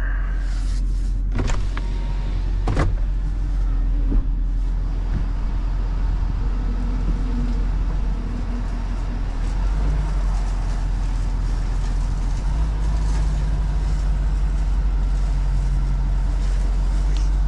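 Work truck running with a steady low rumble, and two sharp clicks in the first three seconds.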